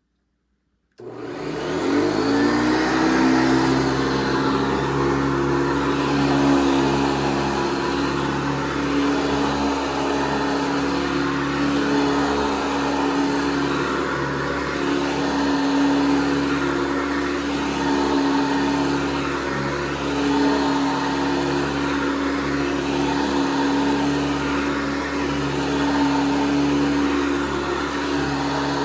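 1982 Hoover Industrial C1069 upright vacuum cleaner switched on about a second in, its motor winding up with a brief rising whine and then running steadily with a strong hum.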